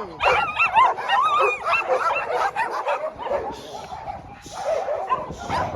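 Several dogs yipping and whining at once, many short overlapping cries that rise and fall in pitch, thickest in the first couple of seconds.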